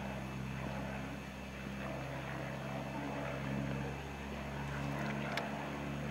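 Light propeller aircraft's piston engine running steadily at an even pitch, a low hum. A brief sharp click about five seconds in.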